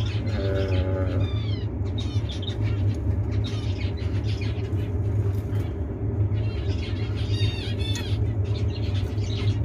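Zebra finches calling over and over, short chirping calls several times a second with a steady low hum beneath.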